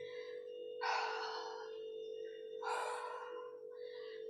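A woman breathing hard from exertion during a set of single-leg deadlifts: two heavy, breathy huffs about two seconds apart, then a fainter one, over a steady low hum.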